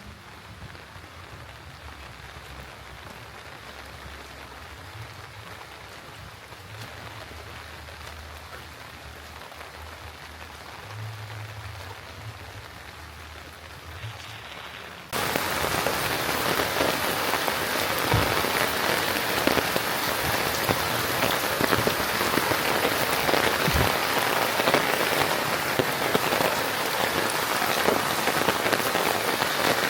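Steady rain falling, light at first, then much louder and heavier all at once about halfway through, a dense hiss with many close drop ticks.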